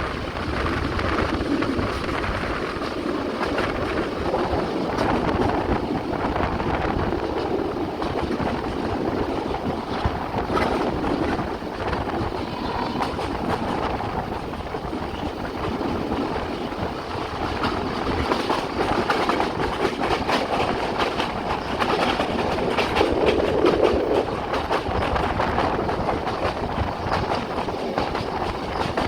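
Passenger train running steadily on the line: a continuous rumble of wheels on rail, with frequent clicks as the wheels pass over the rail joints.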